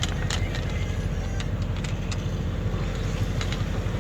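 A sailing yacht's auxiliary engine running steadily under way, a low even drone, with a few short clicks over it.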